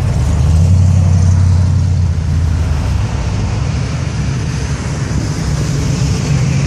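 Classic car's engine rumbling low as it cruises past, its deep steady note strongest for the first three seconds before giving way to a rougher mix of passing traffic.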